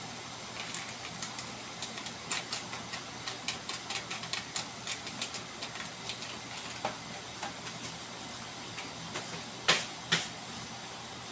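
Quick, irregular clicks and clinks of kitchen utensils against a container, with two louder knocks near the end, over a steady low hum.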